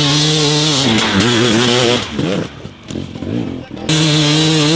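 Enduro motorcycle engine held at high revs as the bike climbs a steep dirt hill. The revs drop and surge unevenly about halfway through, then hold steady again near the end.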